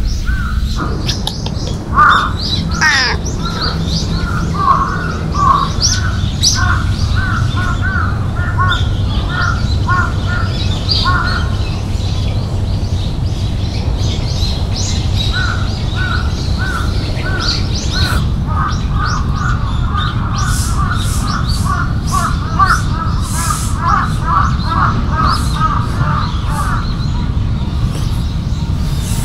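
Birds calling in long runs of short, quickly repeated notes, with higher chirps above and a steady low rumble underneath.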